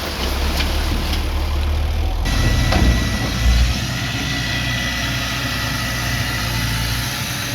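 Heavy earthmoving machinery's diesel engine running with a deep low rumble. About two seconds in the sound changes abruptly; two heavy thumps follow and a thin steady whine appears.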